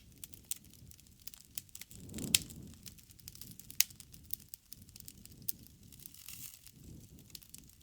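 Campfire crackling: a steady run of sharp pops and snaps over a low rumble of burning wood, with one louder pop about two seconds in.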